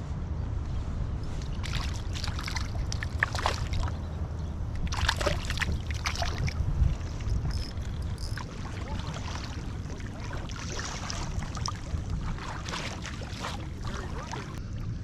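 Water splashing and sloshing against the hull of a pedal fishing kayak in irregular bursts, over a steady low rumble.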